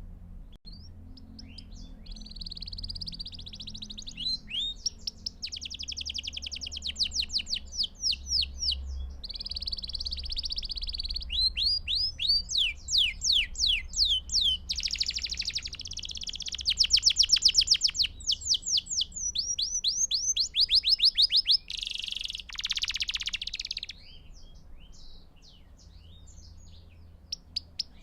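Belgian canary singing a long, continuous song of rapid trills: rolls of fast repeated high notes, phrase after phrase with only brief breaks, thinning to scattered softer notes near the end.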